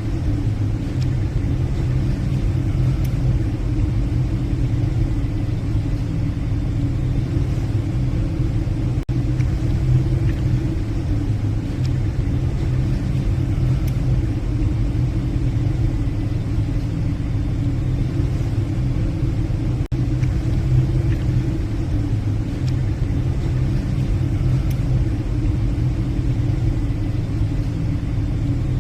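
Steady low drone of a passenger ship's engines and machinery under way, with a few faint ticks.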